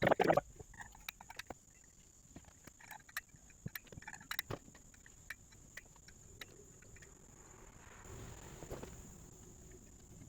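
A loud knock at the start, then scattered light clicks and taps of work on lumber, with soft rustling near the end.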